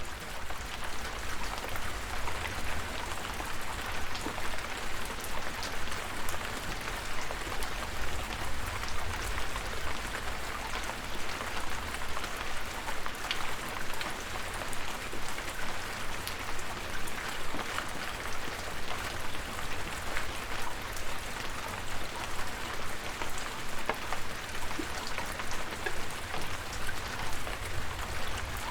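Steady rain falling, with scattered sharp drop hits over an even hiss and a low rumble underneath.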